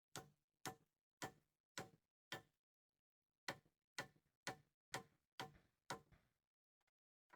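A tool striking repeatedly, sharp knocks about two a second: five blows, a pause of about a second, then six more.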